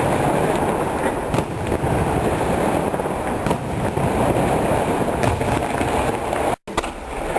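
A fireworks display: a dense, continuous crackling and popping with scattered sharper bangs. The sound cuts out for a split second about six and a half seconds in.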